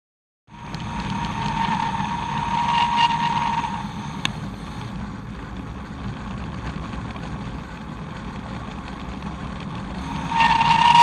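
Bicycle's Shimano mineral-oil hydraulic rear disc brake squealing with a steady high tone over wind and tyre noise while braking downhill. The squeal fades about 4 s in and comes back loud near the end. It is the sound of an overheating brake; the rotor was found smoking and the brake fluid boiling.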